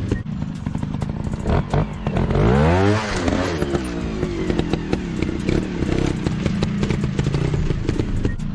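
Dirt bike engine running, revving up sharply and falling back about two to three seconds in, with scattered clicks and clatter throughout.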